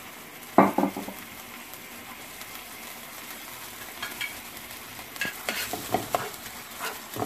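Onions, lemongrass, chilies and curry paste sizzling steadily in oil in a nonstick frying pan, with dark oyster sauce just poured in. A spoon stirs the mix, scraping and tapping against the pan several times in the second half. A short vocal sound about half a second in is the loudest moment.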